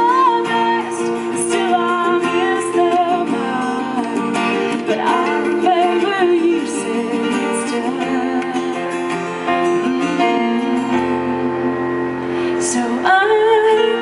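Music: a woman singing a slow ballad over acoustic guitar.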